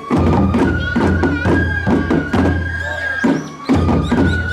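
Japanese festival music (matsuri-bayashi): a bamboo flute holding long high notes, breaking off and coming back, over a dense run of percussion strikes.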